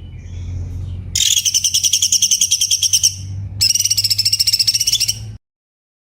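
Cucak cungkok singing: after a soft call, two dense bursts of rapid, sharp repeated high notes, each about two seconds long, over a steady low hum. The sound cuts off suddenly to silence near the end.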